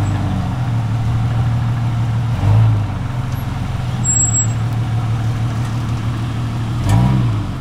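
Off-road 4x4's engine running steadily at low revs, with a short rev about two and a half seconds in and another that rises and falls near the end.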